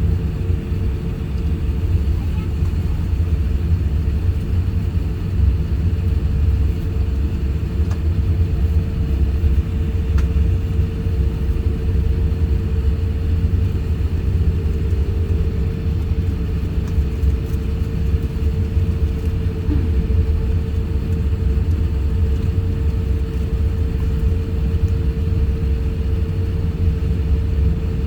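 Steady cabin noise inside an Airbus A350-1000 airliner: a continuous low rumble from the engines and airflow, with a steady hum running through it.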